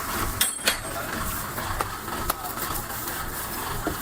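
Heavy earthmoving machinery running with a low steady rumble, with several sharp metallic clanks: two close together about half a second in, then single ones scattered through the rest.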